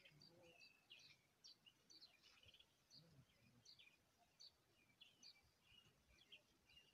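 Faint birdsong: many short, high chirps from small birds, one after another, over a quiet outdoor background.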